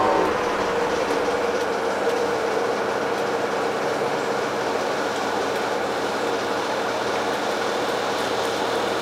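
Steady running noise inside an Alstom Coradia LINT diesel railcar (DB class 648) under way: an even rumble with a constant mid-pitched hum.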